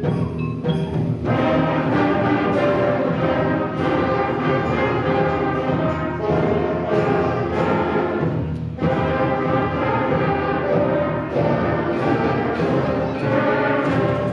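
Middle school concert band playing a loud, brassy piece, with brass and woodwinds over regular drum strokes. There is a brief break in the sound about nine seconds in.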